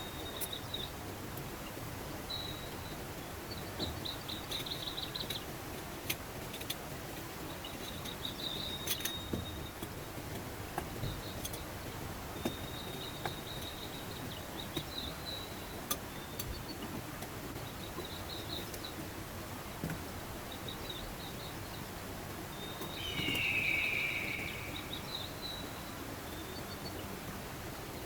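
Steady rush of a mountain stream with short, high chirping trills repeating on and off from birds or insects. One louder, slightly falling call stands out near the end.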